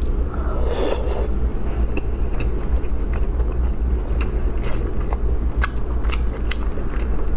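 Sea snail being sucked out of its shell, with a short slurp about half a second in, then wet chewing with scattered small clicks, over a steady low hum.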